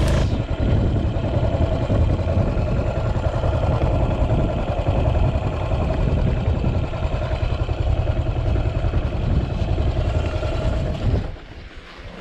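Yamaha SR400 single-cylinder motorcycle engine running steadily, dropping off sharply near the end.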